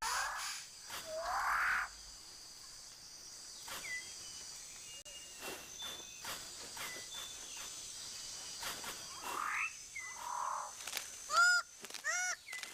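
Rainforest animal calls: two rasping upward-sweeping calls in the first two seconds, then scattered short whistles over a steady high drone. Near the end comes a quick run of nasal, honking notes.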